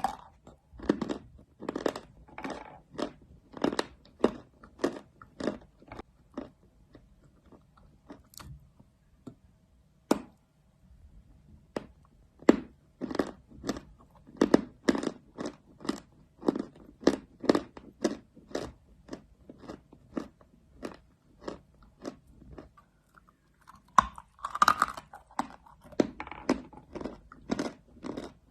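Pieces of chalk being bitten and chewed close to the microphone: short crisp crunches at about two a second. They thin out for a few seconds in the middle, and there is a louder crunch, like a fresh bite, near the end.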